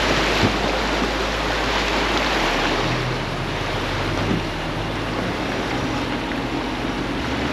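Small boat under way: rushing, splashing water and wind noise over the steady low hum of its motor.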